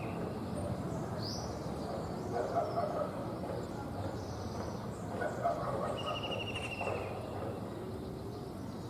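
Kingfisher calling: one short, fast trill that falls slightly in pitch about six seconds in, with a brief high rising note about a second and a half in, over steady background noise.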